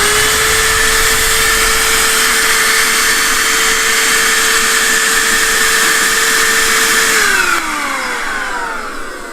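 AUDEW cordless handheld vacuum cleaner running: a steady motor whine over rushing air. It is switched off about seven seconds in, and the whine falls in pitch as the motor spins down.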